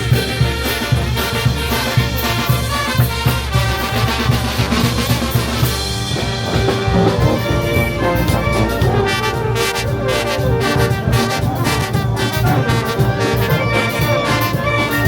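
Brass band playing, with trumpets and trombones carrying the tune; from about halfway in, drum strokes come through more clearly, keeping a steady beat.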